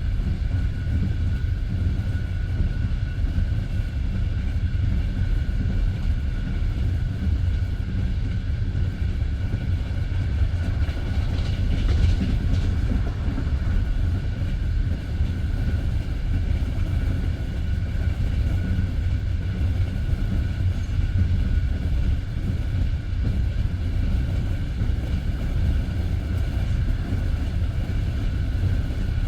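Passenger train running at speed on the open line, heard from inside a carriage: a steady low rumble of wheels on rails, with a faint steady ring above it.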